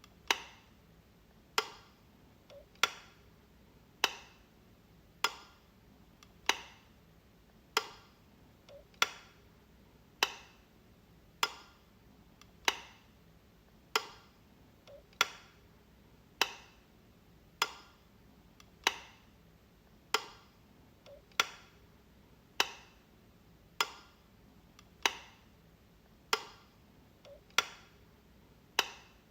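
Light switch being flicked over and over: sharp single clicks at an even pace, about one every second and a quarter, with a fainter small click slipped in now and then.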